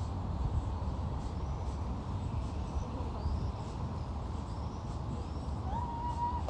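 Steady low wind noise on the microphone, with faint birds chirping and whistling, and one clear whistled call that rises and then holds steady, starting near the end.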